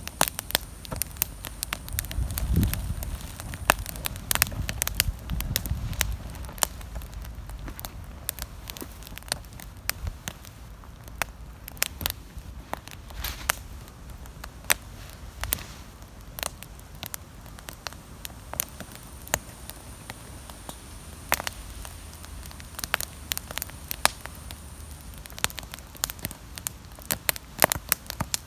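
Wood campfire crackling, with sharp pops coming at irregular intervals, several close together in the busier stretches. A low rumble swells under the crackling from about two to six seconds in.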